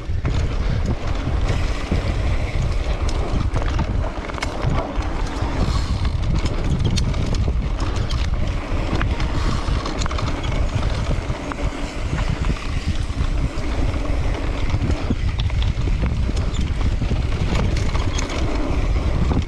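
Wind buffeting the microphone of a camera on a mountain bike moving along a trail, a steady heavy rumble with scattered clicks and knocks over rough ground.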